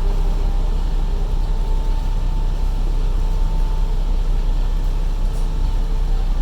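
A Sydney ferry's engines running with a steady low rumble, and faint intermittent tones above it.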